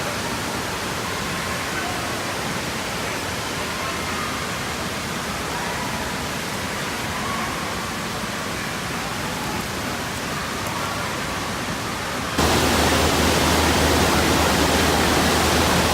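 Steady rushing-water noise of an indoor water park, an even hiss that jumps abruptly louder about twelve seconds in.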